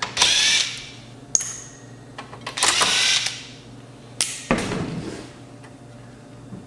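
Small power screwdriver running in three short bursts, with sharp clicks in between, backing out screws that hold a circuit card in the receiver's chassis.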